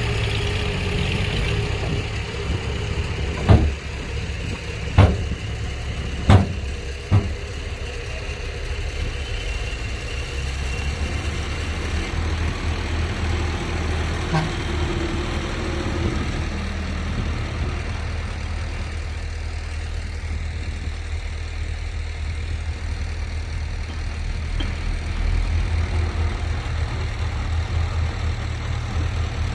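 Heavy construction-machine diesel engine running steadily at low revs, with four sharp metallic knocks a few seconds in.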